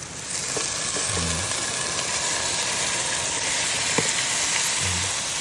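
Hot oil sizzling in a pan as onion, garlic, ginger and chili sauté. The sizzle swells just after the start and holds steady, with a single sharp click about four seconds in.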